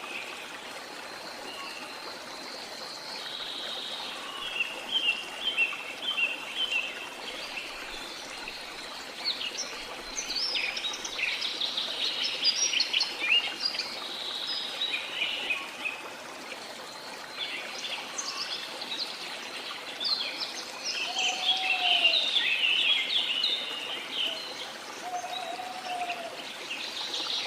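Steady rush of a waterfall with rainforest birds chirping over it: several runs of rapid high chirps, the loudest about two thirds of the way through, and two short lower calls near the end.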